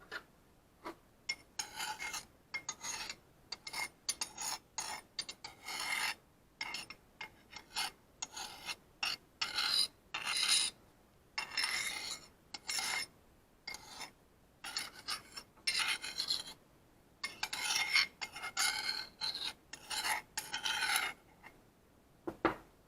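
A kitchen utensil scraping food, in many short, irregular rasping strokes, one or two a second, that stop near the end.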